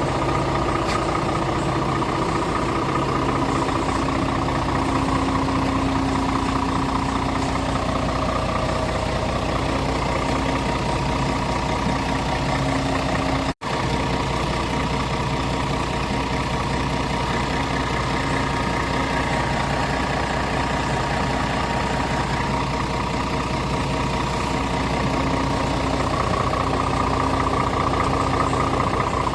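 Scania R450 truck's 13-litre inline-six diesel idling steadily, with a momentary break about halfway through.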